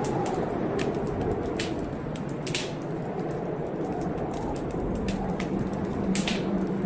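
Wood fire crackling, with irregular sharp pops about once a second, over a steady low rushing storm ambience.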